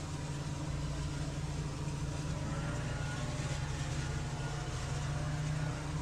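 Engine of outdoor power equipment running steadily at a constant speed, a continuous low drone.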